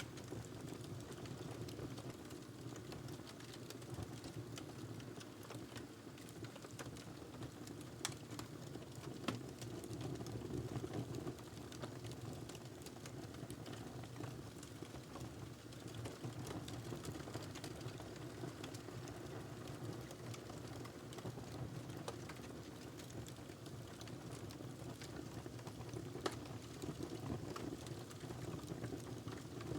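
Wood fire crackling steadily with a low rush of flames and frequent small ticks. Sharper pops come about 8 and 9 seconds in and again near the end.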